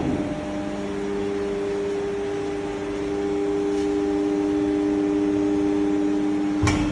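A CNC bending machine running with a steady, multi-toned hum, ending in a sharp clunk near the end.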